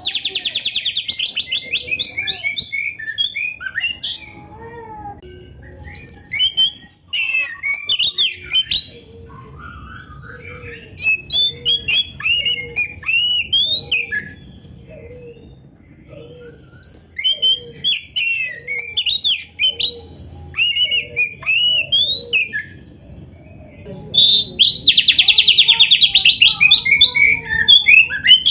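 Oriental magpie-robin singing a long, varied song of whistles, slurred phrases and chattering notes, opening with a rapid rattling trill and returning to it near the end.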